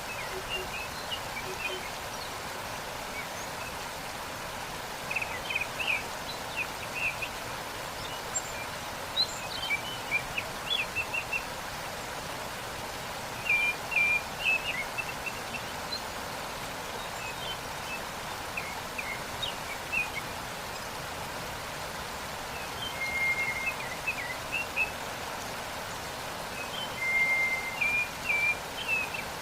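Steady rush of a waterfall, with small birds chirping in quick clusters of high notes every few seconds, including a couple of short held whistles.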